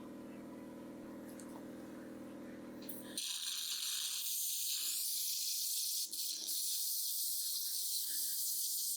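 Dental equipment: a steady low hum, then from about three seconds in a loud, high-pitched hiss of air that runs on until it cuts off at the end.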